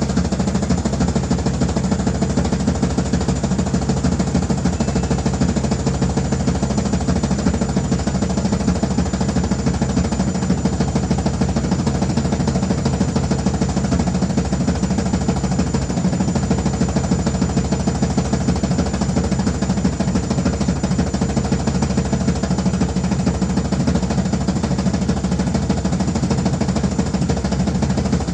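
Noisy washing machine running steadily: a loud, unbroken machine hum with a fast, even rattle.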